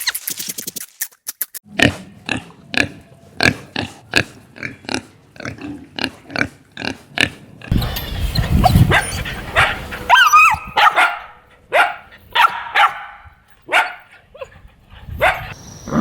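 Farm animal calls: a run of short calls about twice a second, then a stretch of low noise and louder calls that bend in pitch.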